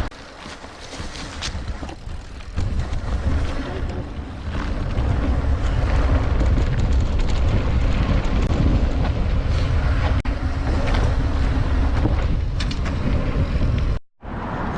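Wind buffeting the microphone of a camera riding along on a mountain bike, with a steady rumble and many small knocks and rattles from the bike going over the trail. The sound drops out for a moment near the end.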